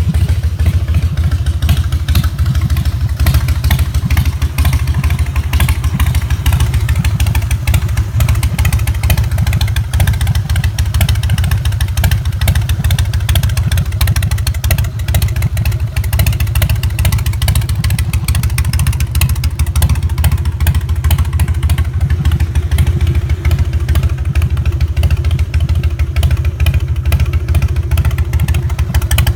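Harley-Davidson FXST Softail Standard's 1450 cc Twin Cam 88B V-twin idling steadily through aftermarket Vance & Hines mufflers, a loud, even low-pitched rumble with no revving.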